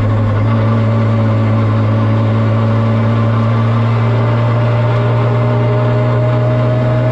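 The Supra drift car's 2JZ inline-six engine running at a steady engine speed, one constant low note with no revving or gear changes.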